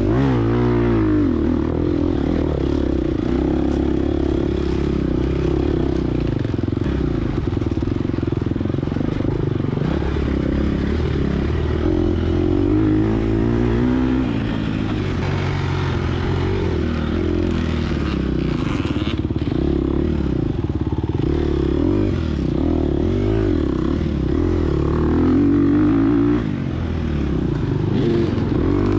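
Gas Gas EX250F dirt bike's 250cc four-stroke single-cylinder engine running hard, its pitch rising and falling continuously as the rider works the throttle and gears through the race course.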